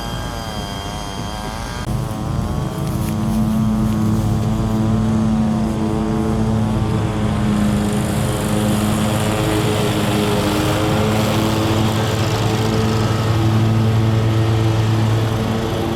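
Rail cars' wheels squealing in a wavering tone. About two seconds in this gives way to a steady, even engine drone as the welded rail train goes by.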